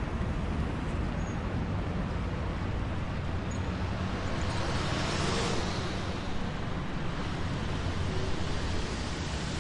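City traffic: a steady rumble of road traffic, with one vehicle passing and swelling louder about five seconds in.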